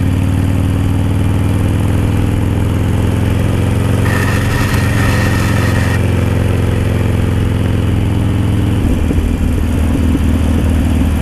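Harley-Davidson Sportster Roadster's V-twin engine through an aftermarket Dan Moto exhaust, running at low, steady revs with its pitch easing slowly down. About nine seconds in the note turns rougher and more uneven as the revs change. A faint thin high tone sounds for about two seconds midway.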